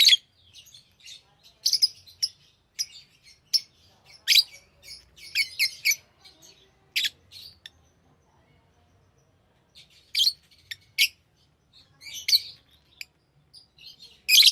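Pet lovebirds chirping: short, sharp, high chirps in quick irregular clusters, with a pause of about two seconds in the middle.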